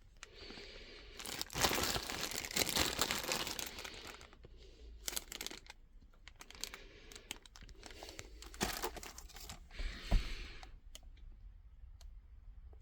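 Packaging being handled and unwrapped: crinkling, rustling and tearing in irregular bursts, the longest and loudest about two to four seconds in, with a few clicks and a soft thump about ten seconds in.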